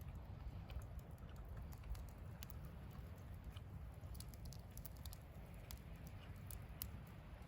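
Wood campfire crackling, with irregular sharp pops and ticks, over a steady low rumble.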